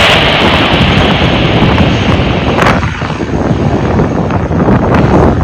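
Loud low rumble of wind buffeting the microphone, with a hiss that fades away over the first two seconds or so and a sharp crackle a little before three seconds in.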